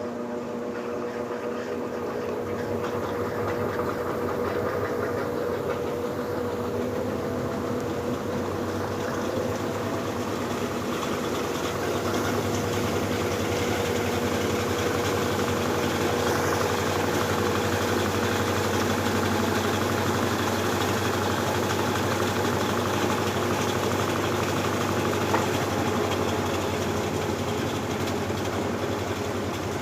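Electrolux LBU15 top-load washing machine draining, its drain pump humming steadily while the water runs out, with the machine's running noise building gradually louder.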